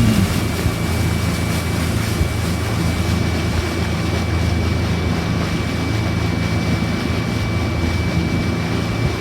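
Motorboat engine running steadily, a low even hum over the rush of wind and water.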